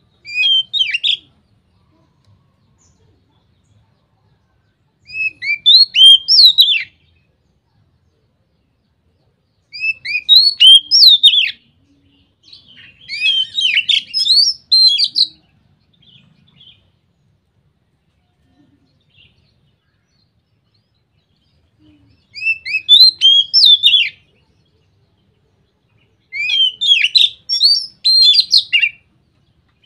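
Oriental magpie-robin (kacer) singing its loud, open 'ngeplong' song: six short phrases of quick rising and falling whistled notes, each a second or two long, with pauses between them.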